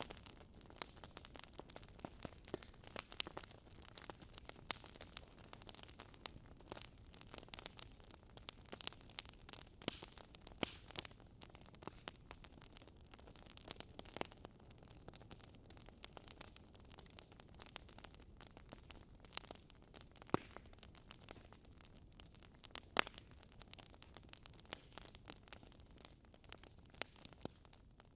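Wood fire crackling in a fireplace: irregular sharp pops and snaps over a soft hiss, one pop louder than the rest near the end.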